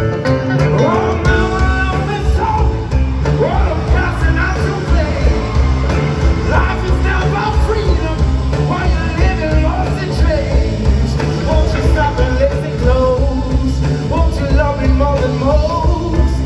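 Live band playing a song with singing over a steady bass and drum beat.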